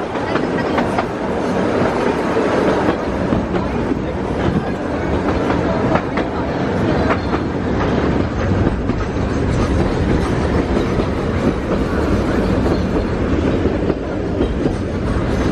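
Puffing Billy narrow-gauge steam train running along the track: a steady rumble with the wheels clicking over the rail joints.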